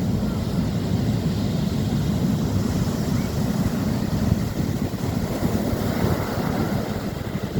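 Wind buffeting the microphone at the seashore: a steady low rumble.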